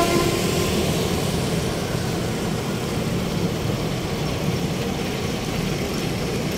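Steady road traffic noise: vehicle engines running along a busy city street.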